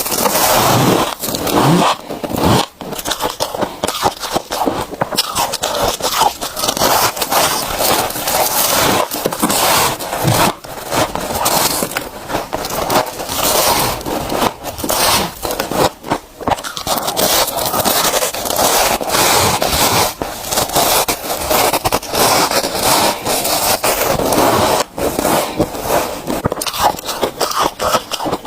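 Close-up crunching and scraping of freezer frost, a dense, continuous run of crackly crunches with only brief dips.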